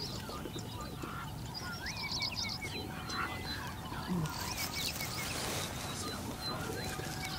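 Several wild birds chirping and whistling, short rising and falling calls, over a steady low rumble.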